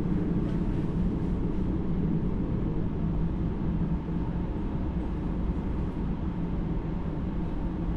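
A local train running slowly, heard from inside the passenger car: a steady low rumble.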